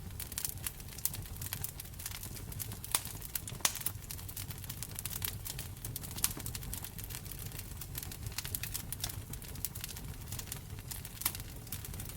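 Wood fire crackling in a fireplace: a steady low rumble of flame under frequent sharp snaps and pops, with a few louder pops scattered through.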